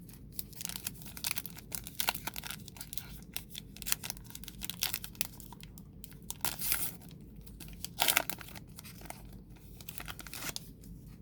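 A baseball card pack's wrapper being torn open and crumpled: a busy run of crackles and rips, loudest about 8 seconds in, that dies down near the end.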